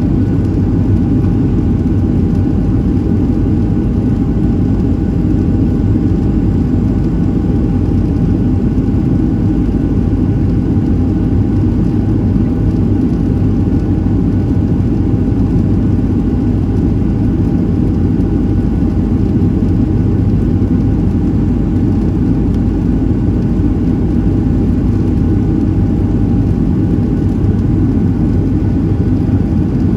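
Cabin noise of a Boeing 737-700 in flight: a steady, loud rumble from the CFM56-7B engines and airflow, with a faint steady hum over it.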